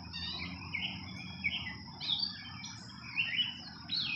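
Several birds chirping in short, quick notes, some sliding up or down in pitch, over a steady high thin tone and a low background rumble.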